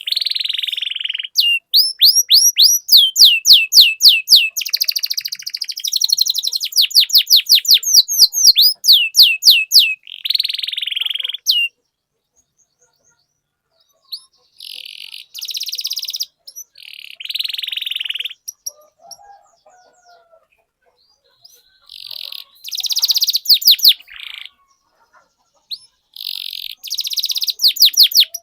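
Domestic canary singing: fast rolls of repeated down-sweeping whistled notes alternating with buzzy trills. The song breaks off for a couple of seconds around the middle and resumes.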